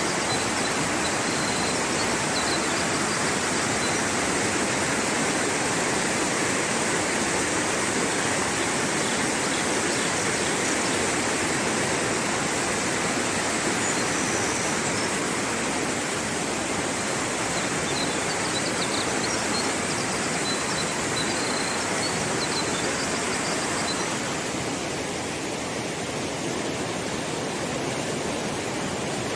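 Steady rushing of flowing water, like a stream or waterfall, with a few faint short high chirps over it. It eases slightly after about 24 seconds.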